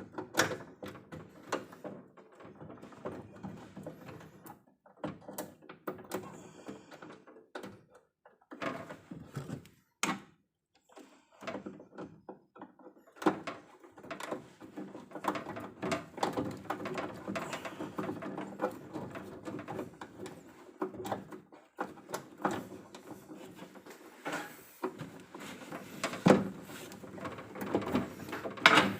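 Irregular knocks, clicks and clatter of hands handling tools and hard parts, with a few louder thunks, the loudest about 26 seconds in.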